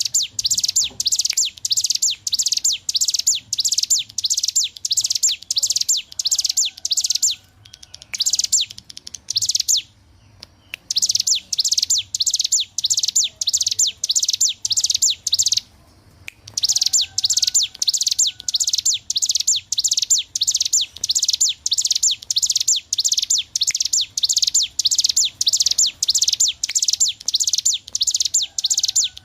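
Ciblek gunung, a small prinia, singing in rapid, continuous high chirping bursts, the long run of notes called ngebren, broken by a few short pauses. Faint lower whistled notes sound now and then underneath.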